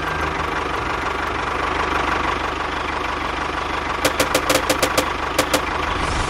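Small engine of a DIY mini tractor running steadily. Just past the middle, a quick run of about ten sharp clicks or knocks sounds over it.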